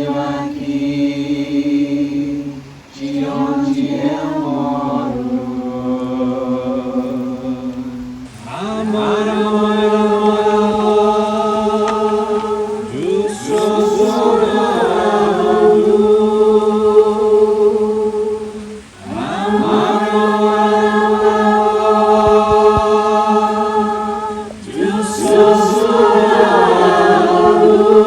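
Group of voices chanting in long, held notes, phrase after phrase with short breaks between. The pitch shifts higher about a third of the way through.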